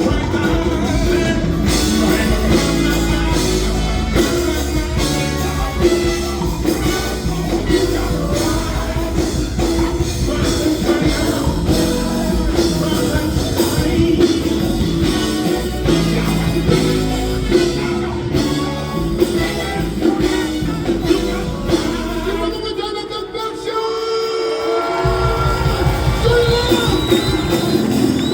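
Live funk band playing, with singing over bass, drums and keys. The bass and drums drop out for a couple of seconds near the end, then come back in.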